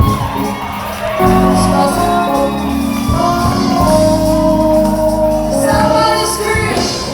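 Live gospel worship music: a band playing sustained chords over bass and drums, with a woman's voice singing.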